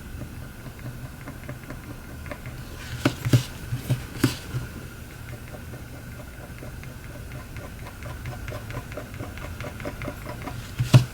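Small tool scraping and ticking over a Samsung Galaxy S7 edge screen, picking off leftover bits of broken glass, with a few sharper clicks about three to four seconds in, over a steady low hum.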